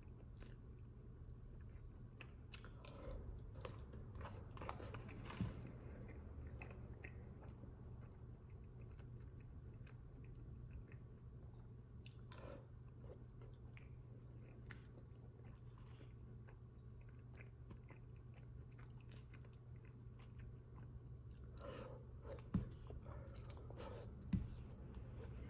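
Faint close-up chewing and biting of a microwaved chicken enchilada bake eaten with a fork, over a steady low hum, with two sharper taps near the end.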